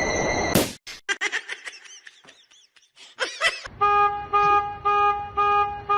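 A run of quick clicks and short chirps, then five short horn-like toots of one steady pitch, about half a second apart.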